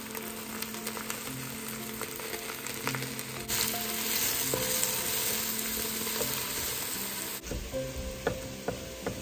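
Mushrooms sizzling as they sauté in olive oil in an enameled Dutch oven, getting louder about three and a half seconds in. Near the end the sizzle cuts off and a chef's knife chops garlic on a wooden board in a few sharp knocks.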